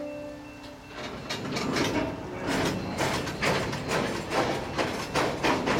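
Train wheels clicking and clanking over rail joints and switches: a rapid, uneven run of metallic clicks that starts about a second in and grows louder. A short steady tone sounds just before it.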